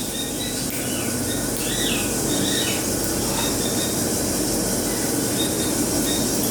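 Many caged parrots and other birds calling at once, making a dense, steady din of chatter and screeching. A few short whistled calls stand out in the first half.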